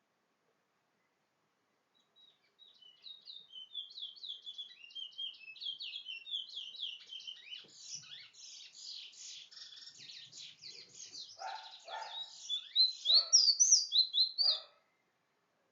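A small songbird singing a long, rapid song of quick high chirps and trills, starting about two and a half seconds in and stopping abruptly near the end. It is loudest in its last couple of seconds, and lower-pitched calls join in over the final few seconds.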